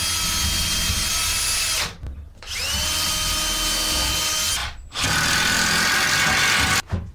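Power drill driving screws into a wooden table leg, in three runs of about two seconds each with short pauses between them. The second run begins with a rising whine as the motor spins up.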